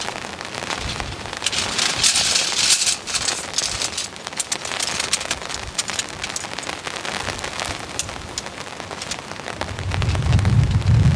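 Heavy rain coming down, a dense hiss of many drops striking close by, with a heavier spell about two seconds in. Near the end a low rumble of wind gusting on the microphone sets in.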